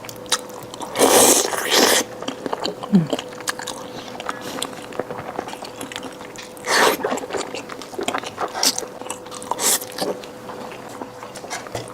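Close-miked eating: a person biting and chewing a mouthful of food, with short wet mouth noises, the loudest about a second in and again about seven seconds in, over a faint steady hum.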